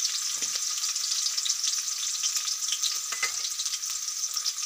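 Sliced onions and slit green chillies sizzling in hot oil in a kadai: a steady, even hiss, with a couple of faint taps.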